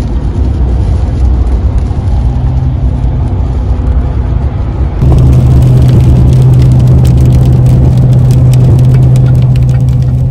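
Steady road and engine noise heard from inside a moving vehicle's cabin. About halfway through it gets louder, with a steady low hum and a rapid patter of fine ticks.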